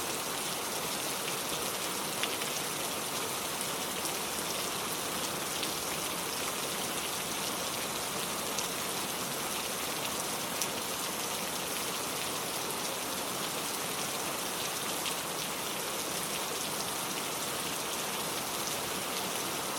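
Steady rain falling in a forest, an even hiss of rainfall with the occasional distinct drop tick on leaves.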